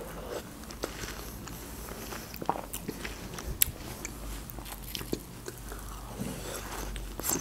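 Close-up mouth sounds of a person biting and chewing juicy watermelon: soft wet squelches with scattered sharp clicks and small crunches.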